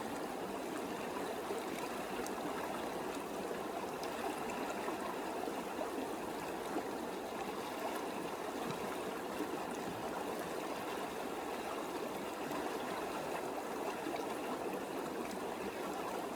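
Small creek flowing and trickling over rocks, a steady rushing of water.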